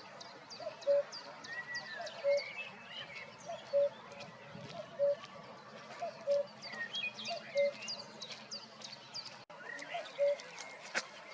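Common cuckoo calling its two-note "cu-ckoo", the second note lower, repeated about once every second and a half. Small songbirds chirp quickly and high over it.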